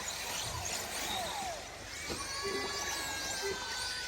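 Radio-controlled 4x4 short course trucks racing, their motors whining high and rising and falling in pitch as they speed up and slow down. A steadier high whine joins about halfway through, and there are a few light knocks.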